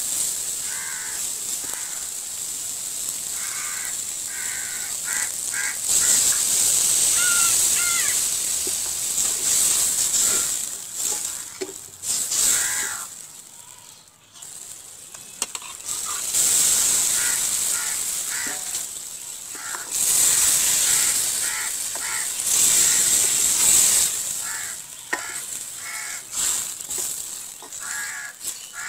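Onion and spice masala frying in oil in a steel karahi, sizzling loudest in stretches of a few seconds. Crows caw several times in the background, near the start and again toward the end.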